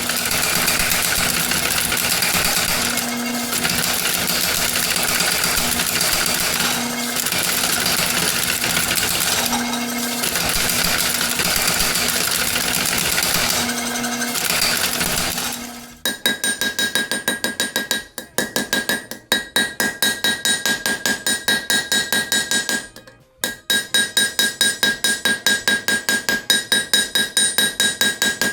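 A steady machine noise with a low hum that swells every few seconds. About sixteen seconds in it stops and gives way to rapid hammer blows on ringing steel, about three a second, with two short pauses.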